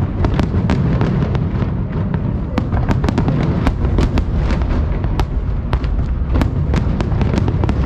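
Fireworks going off in rapid succession: many sharp cracks and bangs, a few each second, over a continuous low rumble of explosions.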